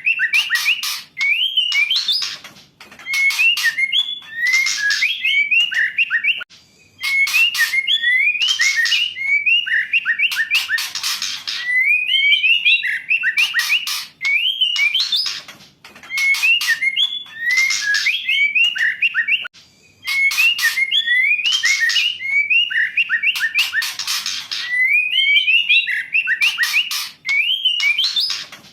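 Female white-rumped shama calling: short phrases of quick whistled notes mixed with harsh, rasping bursts, repeated every two to three seconds.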